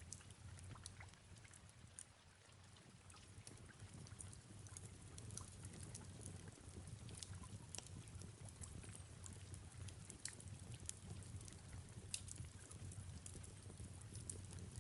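Fireplace crackling, with irregular sharp pops, over a faint steady hiss of soft rain and a low hum.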